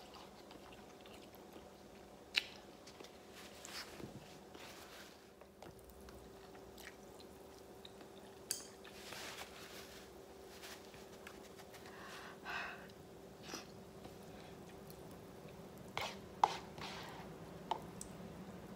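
Faint close-up eating sounds: a person chewing and slurping spicy instant noodles, with scattered sharp clicks of chopsticks against the cup, over a steady low hum.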